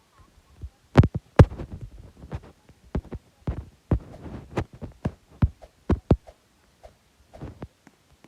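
A run of irregular dull thumps and knocks, about a dozen over five seconds, the loudest two about a second in, then fainter ones.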